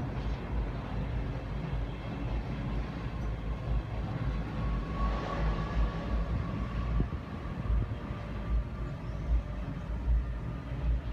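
Low, steady rumble, with a faint held tone rising out of it about halfway through; the uploader calls it a strange sound in the sky.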